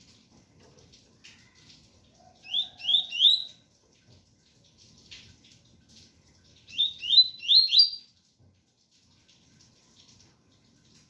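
Double-collared seedeater (coleiro) singing its 'tui-tui' song: two short phrases of quick rising whistled notes, three notes about two and a half seconds in and four about seven seconds in. Faint rain sounds underneath.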